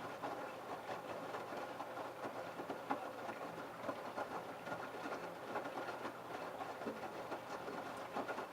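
LG F1222TD direct-drive front-loading washing machine running its prewash: the drum turning with a steady motor hum over a busy clatter of clothes and water. The sound drops away suddenly near the end.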